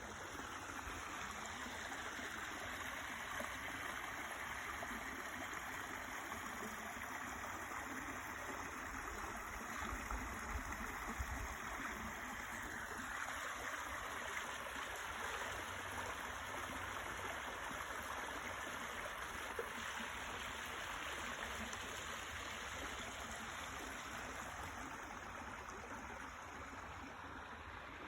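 Water from the spring flowing steadily over rocks in a stream, a constant rushing with a brief low bump about ten seconds in.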